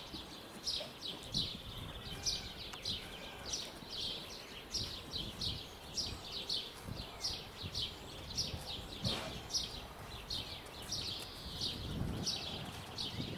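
Small birds chirping: a steady run of short, high, downward-sliding chirps, a few a second.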